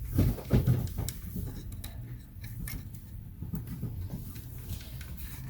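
Hands handling computer hardware: scattered light clicks and knocks, with a few heavier thumps in the first second, over a steady low hum.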